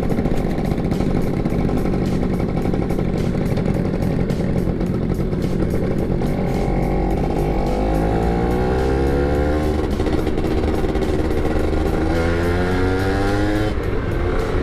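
Yamaha F1ZR two-stroke single-cylinder motorcycle engines being revved hard (blayer) in a dense, rapid crackle of exhaust pulses. The pitch climbs steeply in two rising runs, one around the middle and one near the end.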